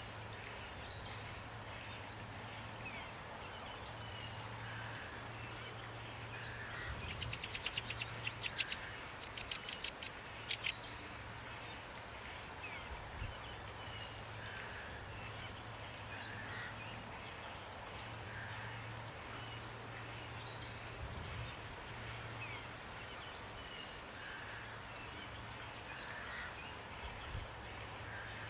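Small birds calling, repeating short high, falling chirps over a steady hiss of rain. About a quarter of the way in comes a louder run of rapid clicking notes.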